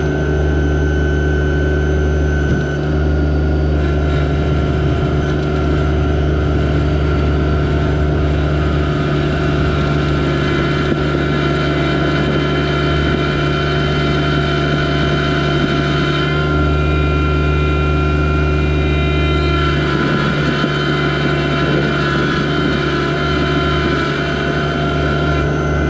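Yanmar SA324 compact tractor's three-cylinder diesel engine running steadily, with its higher tones shifting briefly about two-thirds of the way through.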